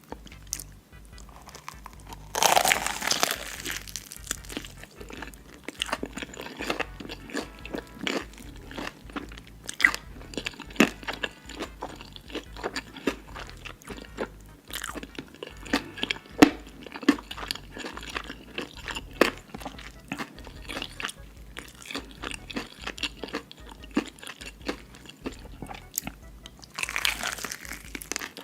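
Close-miked crunching bites and chewing of fried chicken: many sharp crackles, with louder bursts of crunching a few seconds in and near the end. Quiet background music runs underneath.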